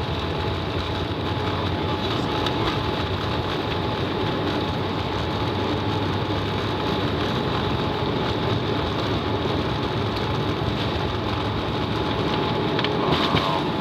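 Steady cabin noise of a Boeing 787 airliner: jet engines and airframe rumbling evenly, with a thin steady whine, as the plane speeds up for takeoff.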